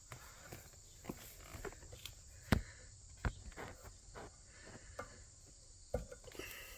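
Scattered light clicks and taps of metal on metal as spring hose clamps on the fuel line of an RPS 125cc kids' ATV are squeezed and slid along the hose, the sharpest click about two and a half seconds in.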